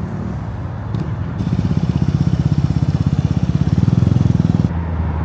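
A car's engine and exhaust running close by at low revs. Its exhaust note pulses rapidly and evenly, grows louder about a second and a half in, then drops off sharply near the end.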